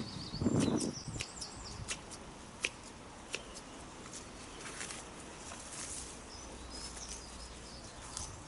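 Small garden birds chirping in short high twitters near the start and again later on, over a loud rustle in the first second and scattered sharp clicks and ticks from hand work in a flower bed.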